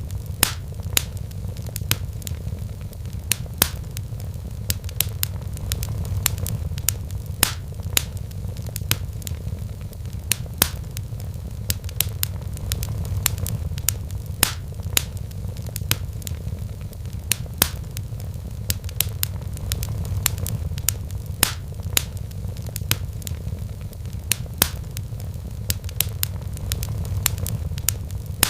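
Wood fire crackling in a fireplace: irregular sharp pops and snaps of burning logs, several a second, over a steady low rumble.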